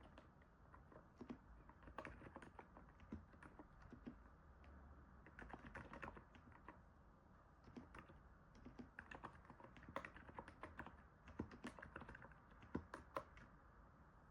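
Typing on a NiZ 68 Pro electro-capacitive keyboard: quiet, irregular keystrokes in bursts with brief pauses between them.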